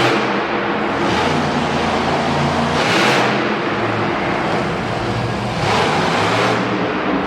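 Monster truck engine running, its revs rising and falling, with louder surges about three and six seconds in.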